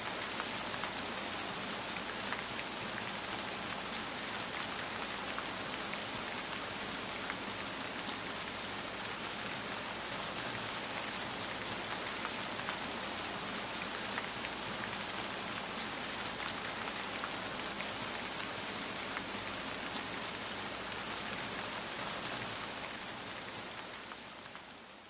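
Steady rain falling on a surface, a dense patter of drops, fading out near the end.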